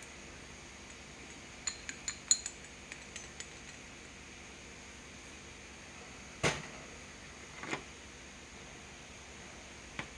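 Small metal tools and parts clinking and tapping on a workbench: a quick run of light metallic clicks about two seconds in, then a few single louder knocks, over a steady low hiss.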